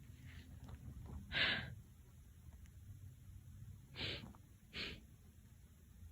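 A person's sharp, breathy huffs of exertion, three short ones: the loudest about a second in, then two close together near the end.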